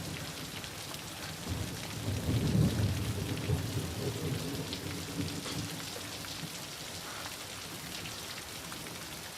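Heavy rain falling steadily. A low rumble of thunder swells about a second and a half in and dies away over a few seconds.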